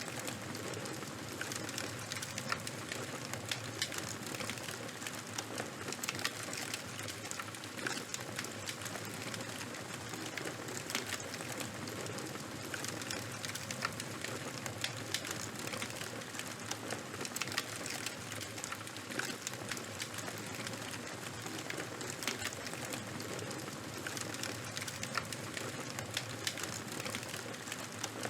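Fire burning: a steady hiss with frequent sharp crackles and pops scattered throughout.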